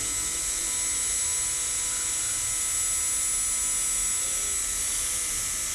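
Small hand grinder running steadily with a constant high whine, used to edge an eyeglass lens.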